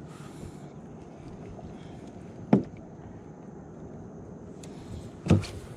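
Two sharp knocks on a fishing kayak, about three seconds apart, the second the louder, over a steady low background noise.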